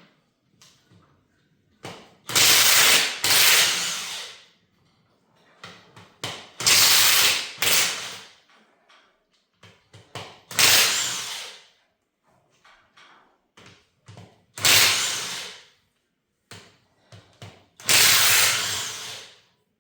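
A power driver running fasteners out of an engine in six short bursts of about a second each, with small metal clicks between them.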